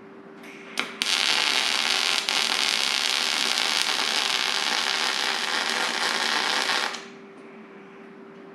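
Electric arc welding on a steel pipe fitting and plate: two brief arc starts, then a steady welding hiss from about a second in that stops abruptly about seven seconds in. A faint steady hum runs underneath.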